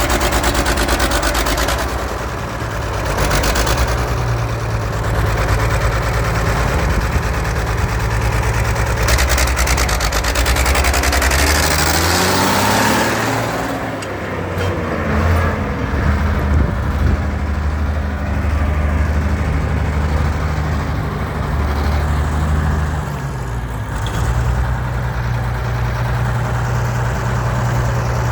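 Muir Hill 121 four-wheel-drive tractor's diesel engine running steadily. It speeds up about halfway through and drops back to its earlier note near the end.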